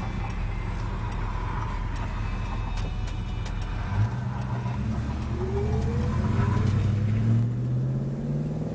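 1968 Plymouth Road Runner's big-block V8 with dual exhaust, heard from inside the cabin: a steady run at low speed, then about four seconds in the engine is opened up and the pitch climbs as the car accelerates.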